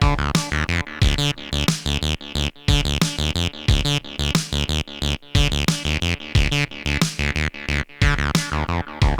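Behringer TD-3 analog bass synthesizer playing a fast sequenced acid bass line, each note with a resonant filter sweep falling away, over a low beat about once a second.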